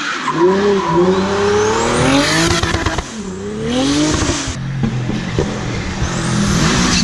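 Car engines revving hard through the gears as the cars accelerate up a hill-climb course, the pitch climbing and dropping with each change. The sound changes abruptly about four and a half seconds in, to another car.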